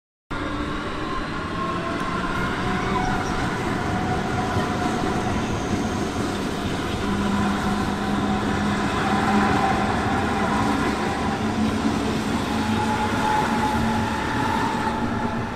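Train running past on the track, a steady rumble of wheels on rails overlaid by several sustained whining tones that waver slightly in pitch.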